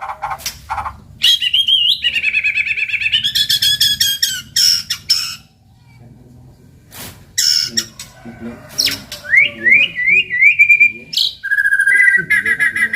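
White-rumped shama singing a loud, varied song of whistled phrases and rapid trills. There is a short break in the middle, then a run of quick rising notes and another fast trill near the end.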